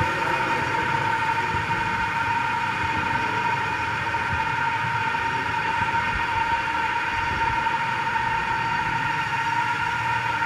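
Ingenuity Mars helicopter model's coaxial rotors and brushless motors running in steady flight: an even, unbroken high hum with several overtones.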